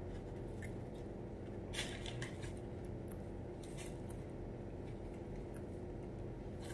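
Faint chewing of a Popeyes fried chicken sandwich: a few soft crackles, mostly about two seconds in, over a steady low room hum.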